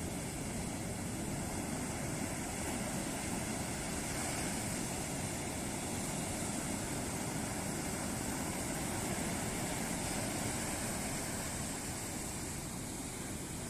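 Ocean surf: waves breaking and washing on a beach in a steady rush, swelling a little in the middle.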